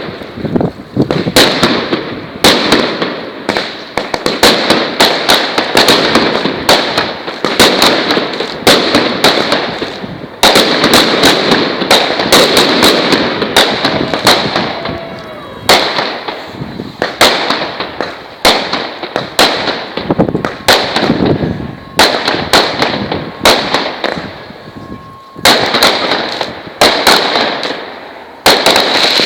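Firework salute battery firing continuously: rapid loud pops of launches and bursts with crackle, coming in waves that ease off briefly every few seconds before the next volley.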